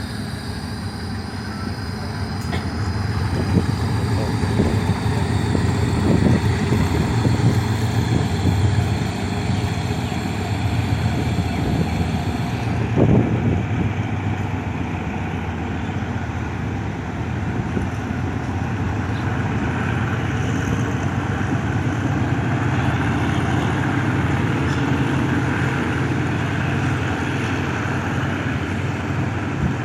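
Steady low rumble of a moving vehicle, with a few short knocks in the first half and a faint high whine that stops about halfway through.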